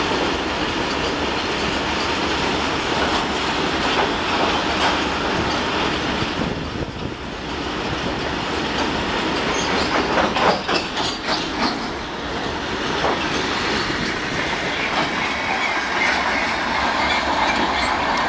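Freight wagons of a cement train running through a station without stopping: a continuous rumbling rattle with steady clickety-clack as the wheels cross the rail joints. The clicks are densest about two-thirds of the way through.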